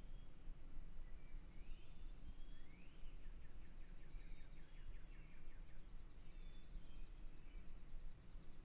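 Dawn birdsong: short rising chirps, with a high, rapid trill that comes in bursts about a second long and repeats every second or two, over a low background rumble.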